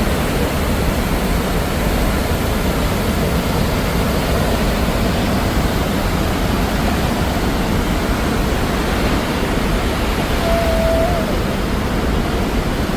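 Steady, loud roar of rushing water from a powerful waterfall, an even rush with no rhythm. A brief faint high note sounds about ten seconds in.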